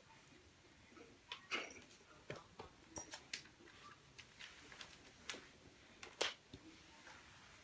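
Kittens at play: faint, scattered taps, clicks and scuffles of small paws and a toy on the floor, the loudest about a second and a half in and again near six seconds.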